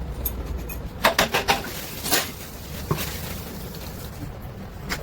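Sharp metallic clicks and knocks of hand tools and parts being handled during engine dismantling: a quick run of four or five about a second in, then single knocks near two and three seconds, over a low steady hum.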